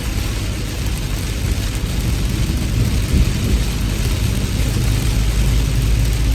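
Heavy rain falling steadily, as an even hiss, over a continuous deep rumble.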